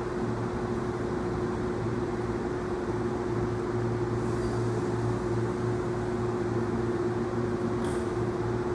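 Steady hum of a stationary Hankyu 1000 series electric train standing at the platform, its onboard equipment running, with one constant mid-pitched tone.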